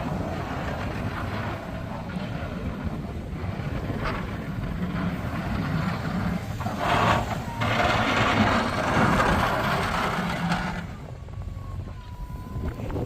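A vehicle engine running steadily, with a loud rushing, hissing noise over it from about seven to eleven seconds in.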